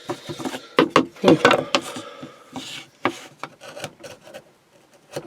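Sandpaper rubbing by hand over a wooden domino stand freshly cut out with router and chisel, in short, uneven scrubbing strokes and light knocks that die away near the end.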